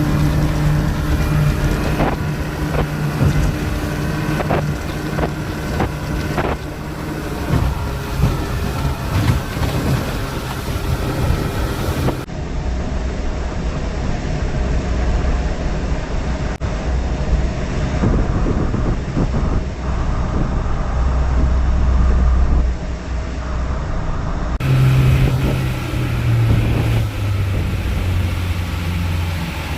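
Speedboat engine running under way, with wind buffeting the microphone. Between about 2 and 10 seconds the hull slaps hard on the waves several times, and near the end the engine note drops in steps as the throttle eases.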